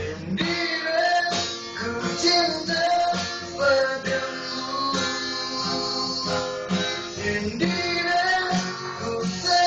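A voice singing a melody in long, wavering held notes over a strummed acoustic guitar.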